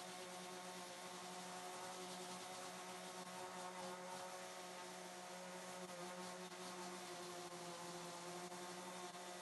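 Electric power tool motor running steadily: an even hum with a hiss over it and no change in speed.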